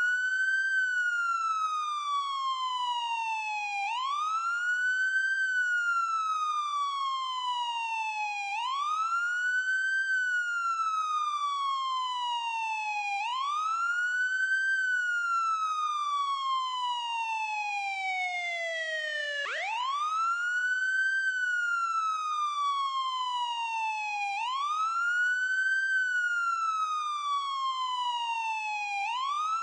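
Ambulance siren on a wail: each cycle rises quickly in pitch, then falls slowly, repeating about every four and a half seconds. Once, about twenty seconds in, the fall sinks lower before the next rise.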